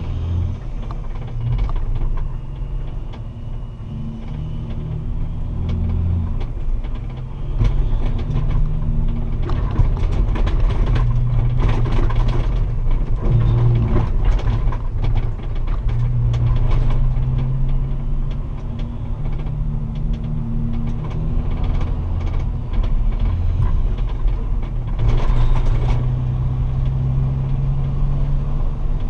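Straight-piped Kenworth semi truck's diesel engine running with a deep, loud exhaust note that shifts up and down in pitch several times, with scattered rattling clicks.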